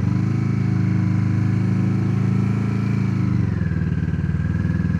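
Motorcycle engine running close up at steady, slightly raised revs, then dropping back to idle about three and a half seconds in.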